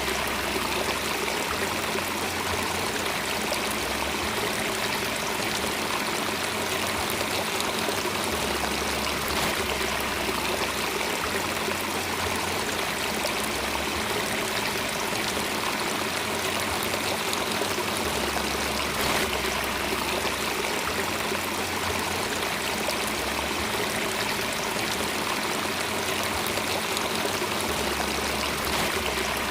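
Steady rushing and trickling of a flowing stream, an even, continuous water sound.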